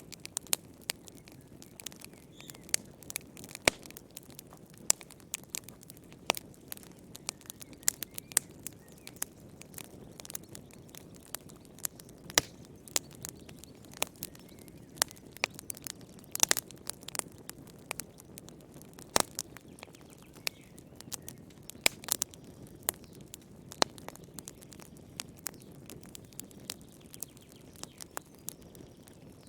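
Wood fire burning in a fireplace, crackling with frequent irregular sharp pops and snaps over a low steady rush of flame.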